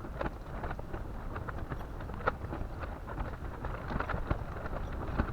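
Wind rumbling on the microphone, with many scattered light ticks and taps throughout.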